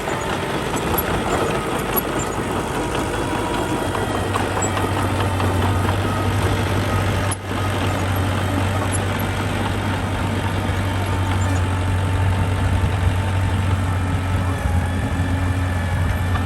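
Diesel engine of earth-moving machinery running steadily, with a brief dropout about seven seconds in.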